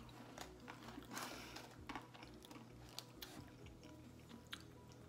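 A person quietly chewing a sauced chicken wing, with scattered short clicks and wet mouth sounds.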